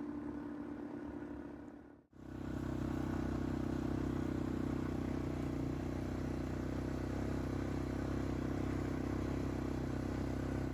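ATV engine running steadily at a constant speed, with a brief cut about two seconds in.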